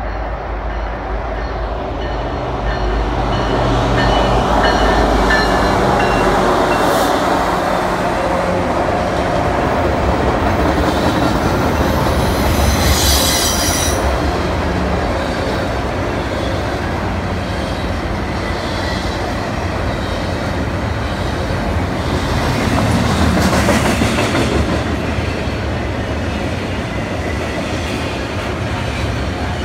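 Union Pacific freight train passing close by: the diesel locomotives' engines swell up and go by, then double-stack container cars roll past with steady wheel clatter. Brief high-pitched wheel squeals come about 13 seconds in and again, fainter, about 24 seconds in.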